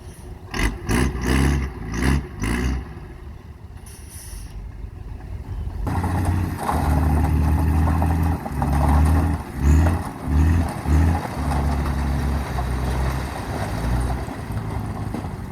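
Truck engine sound from mini model construction machinery: several short revs in the first few seconds, then from about six seconds a longer stretch of stop-start revving.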